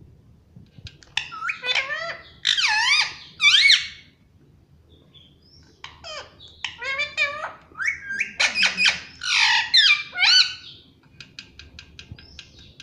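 Indian ringneck parakeet calling in high, squeaky squawks and chatter, in two bouts with a short lull between them.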